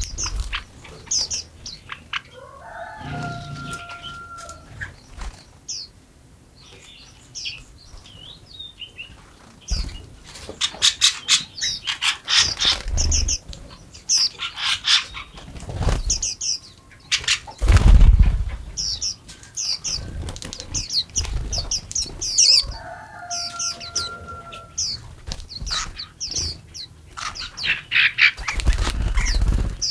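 Small birds chirping with short high notes, over repeated bursts of wings flapping close by, the loudest flutter a little past halfway. A lower, sliding bird call comes twice, early on and about two-thirds of the way through.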